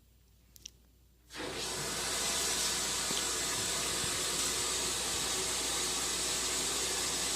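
Water turned on about a second in and running steadily from a tap, rinsing the Desert Spring humidifier's wheel clean of mineral deposits. A faint click comes just before it.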